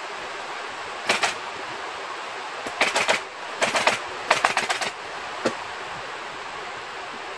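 Upholstery staple gun firing staples in quick runs of several shots, with a pause between each run and one last single shot, over a steady hiss.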